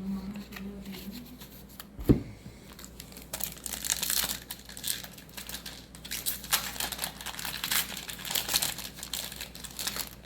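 Foil booster-pack wrapper being torn open and crinkled by hand, a long run of crackly rustles, after a single sharp thump about two seconds in.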